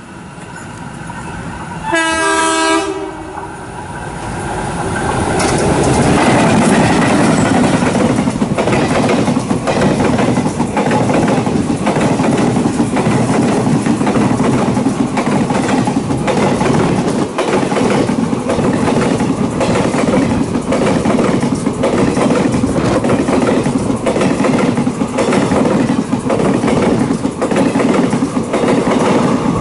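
A train horn sounds for about a second. Then a passenger train passes close by on the next track, with a loud, steady rushing noise and repeated wheel clacks over the rail joints, heard from the window of another train.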